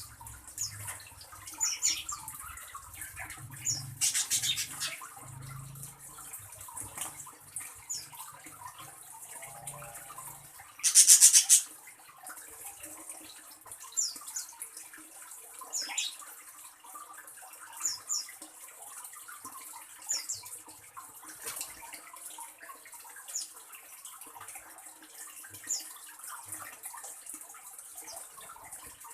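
Birds giving short, high chirps every second or two over a steady hiss, with a loud, harsh, buzzy burst about eleven seconds in.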